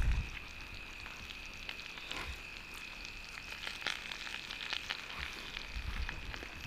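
Meat sizzling on a grill, with scattered sharp crackles.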